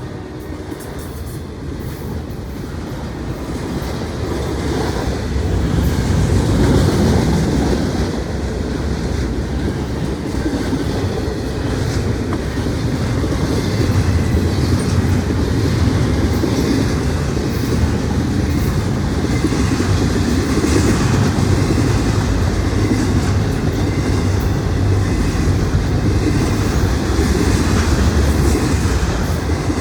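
Norfolk Southern intermodal freight train passing: the rumble grows louder over the first six seconds, then holds steady with the clatter of wheels over the rails.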